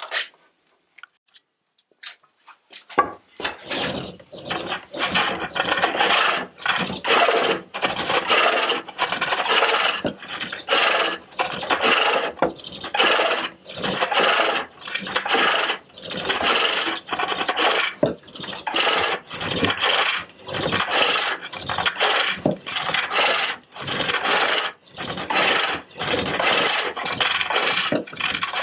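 Hook tool cutting a walnut bowl on a pole lathe: a rasping cut on each downstroke of the treadle, in even bursts of roughly one a second with short pauses as the work spins back. The cutting starts about three seconds in.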